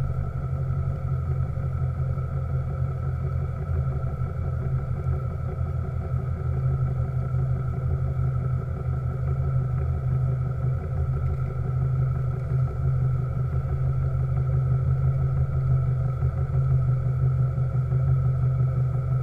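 Small steam launch's steam engine running at a steady speed, a continuous low hum.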